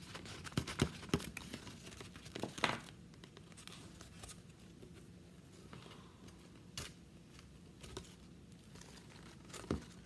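A plastic craft bag being rummaged through and handled: soft crinkling and rustling, with scattered light clicks and taps on the table. The handling is busiest in the first three seconds, and a sharper tap comes near the end.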